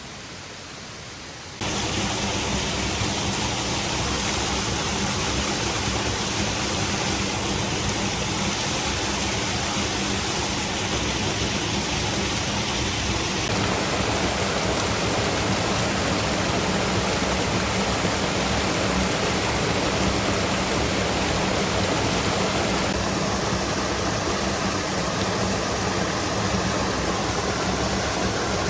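Steady rush of falling water, heavy rain or waterfall spray, loud and even; it comes in abruptly about a second and a half in after a quieter stretch and changes slightly in tone twice later on.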